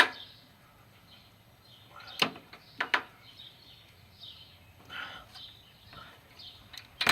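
Four sharp metal clicks and knocks, spaced unevenly, from a socket on an extension being worked onto a spark plug.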